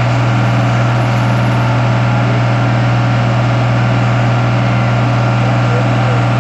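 A vehicle engine running at a steady speed, one even low hum with a hiss over it; its pitch has just stepped up and then holds level.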